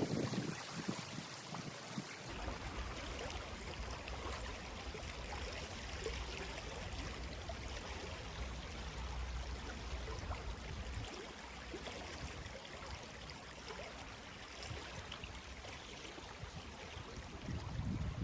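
Running water flowing steadily, a continuous rushing noise, with a low rumble underneath from about two seconds in until about halfway through.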